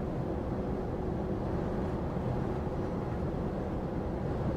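A truck's diesel engine and road noise heard inside the cab while driving: a steady low drone.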